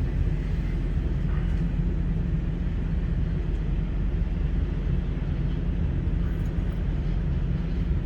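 Truck engine running with a steady low drone, heard from inside the cab.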